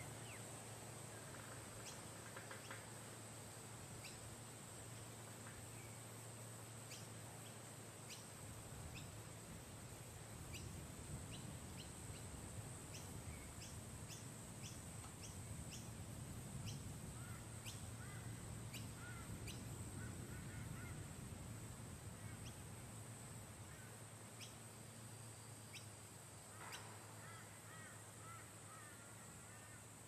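Faint bird twittering in three short bouts, about two seconds in, in the middle and near the end, over a steady high-pitched drone and a low hum, with scattered soft ticks in between.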